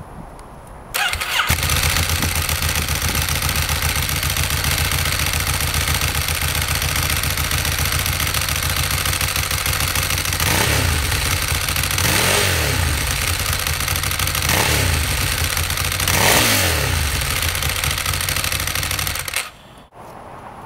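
A 2010 Ducati Streetfighter's 1099 cc L-twin engine starting about a second in, idling steadily and being blipped four times, each rev rising and falling, before it stops shortly before the end.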